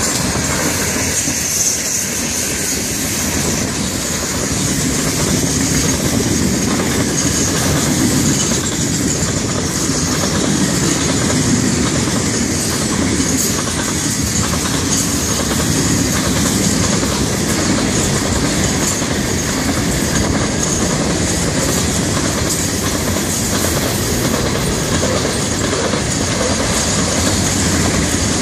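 Loaded freight hopper cars of a Florida East Coast Railway train rolling past, steel wheels on rail making a steady rumble with a continuous clickety-clack over the rail joints.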